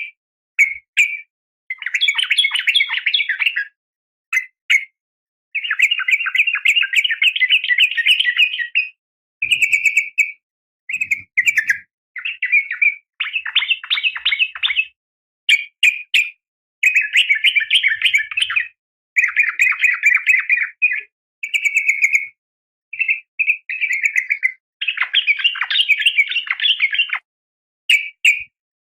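Yellow-vented bulbul (trucukan), a female calling to a male, giving bursts of rapid chattering notes, some runs lasting a second or two, separated by short pauses.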